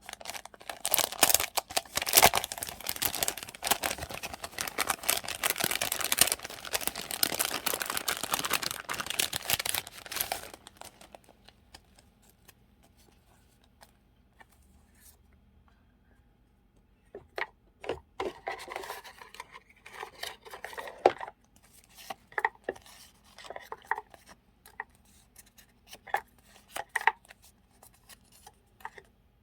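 Close-up rustling and crinkling of paper and plastic journaling supplies being handled for about ten seconds, then a pause, then scattered light taps and clicks with short rustles as items are sorted.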